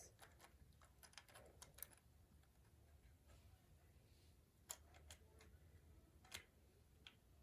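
Near silence broken by faint, scattered clicks of small plastic toy parts being handled: a few in the first two seconds, then single clicks about every second near the end.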